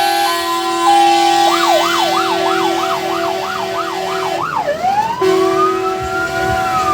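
Fire engine sirens on an emergency run: a two-tone hi-lo siren at first, then a fast warble about two and a half cycles a second, giving way about five seconds in to a slow wail that rises and then falls, over a steady lower tone.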